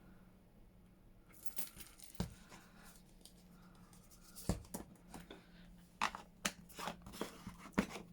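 Paper and craft supplies being handled: rustling with several sharp knocks and taps as things are moved on the table, starting after a quiet first second.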